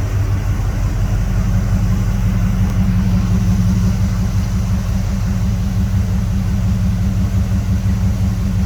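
1979 Chevrolet Camaro Z28's 350 V8 idling steadily with a low, even exhaust rumble. It runs smoothly, with no mechanical noise from the engine.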